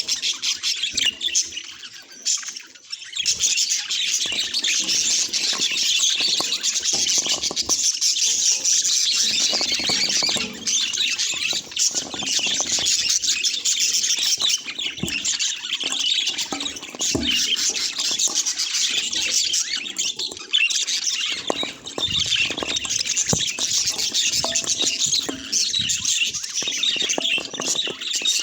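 A flock of budgerigars chattering and warbling together: dense, continuous twittering and squawks with no pauses.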